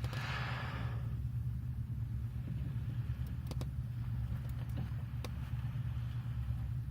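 A steady low mechanical hum, like a boat's motor running, with a short hiss in the first second and a few faint clicks.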